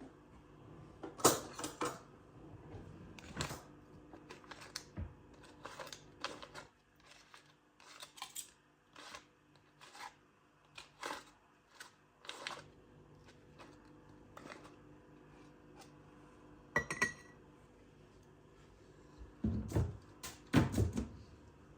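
Irregular light clicks, taps and knocks of small objects being handled in a quiet room, with a brief ringing clink about two-thirds of the way through.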